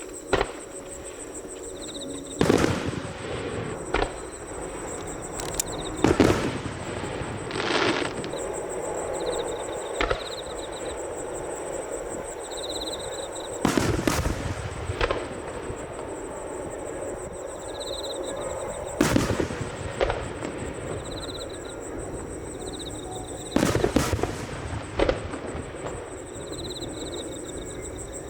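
Aerial fireworks shells bursting overhead: about a dozen loud booms at uneven intervals of one to four seconds, each followed by a rolling echo.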